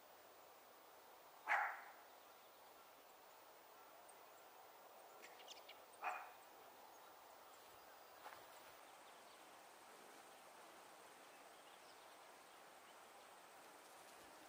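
Two short, sharp animal calls about four and a half seconds apart, then a fainter third call, over a quiet outdoor background with faint high chirps.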